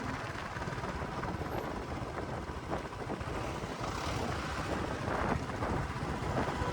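Steady vehicle running noise, an even rough haze with no music.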